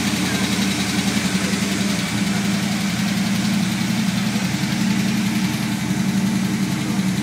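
1964 Chevrolet Impala's engine idling steadily with a fast, even pulse.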